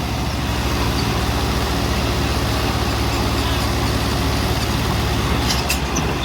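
Tractor diesel engine running steadily under load, a low, even drone.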